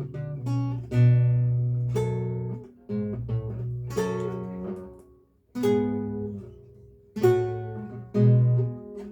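Solo lute playing a recercar: plucked chords and single notes that ring and die away, with a brief pause about five seconds in.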